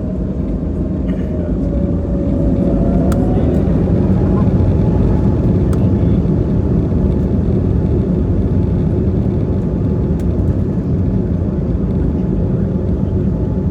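Airbus A320neo's Pratt & Whitney PW1100G geared turbofan engines spooling up to takeoff thrust. About two to four seconds in, a whine rises in pitch as the noise grows louder, then settles into a steady loud rumble.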